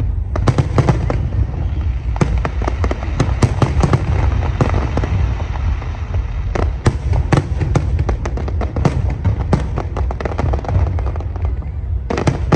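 Aerial fireworks display going off: a dense, rapid crackle of many sharp bursts over a continuous low rumble of shell explosions.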